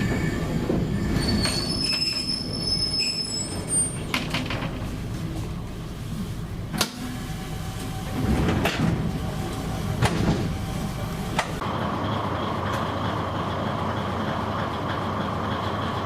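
KiHa 20-series diesel railcar running on the line, heard from the cab end. The wheels squeal high-pitched for a few seconds early on, and several sharp clacks follow as the wheels pass rail joints.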